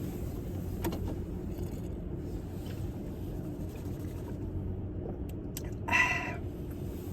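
Steady low background hum with a few faint clicks, and one short pitched sound about six seconds in.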